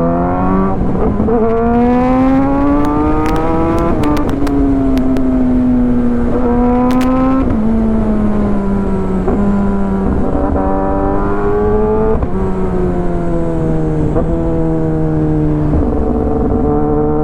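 Kawasaki ZX-10R's inline-four engine through an Arrow full-system exhaust, pulling away. The revs climb for the first few seconds, then the pitch steps down at gear changes and runs at a moderate, easing pitch through the rest.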